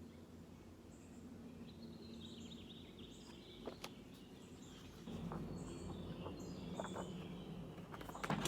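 Faint chirping of small birds over low steady background noise, with a few soft clicks.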